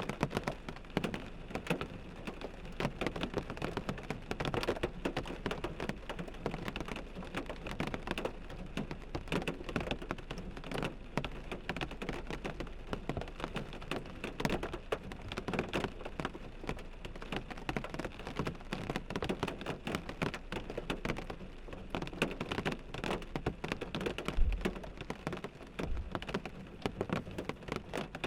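Steady rain pattering on a car windshield: a dense, even spatter of many small drop impacts. A single low thump stands out briefly about three-quarters of the way through.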